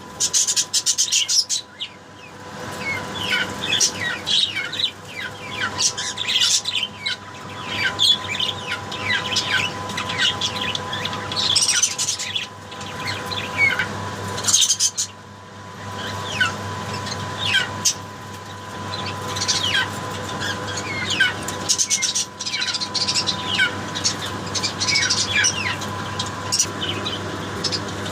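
Pet birds chirping busily: many short, high calls overlapping throughout, over a steady low electrical or fan-like hum.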